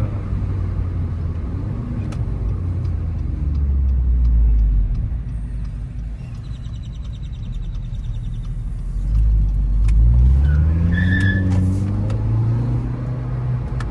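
Car engine accelerating hard, swelling louder twice, its pitch climbing as it revs up about nine seconds in.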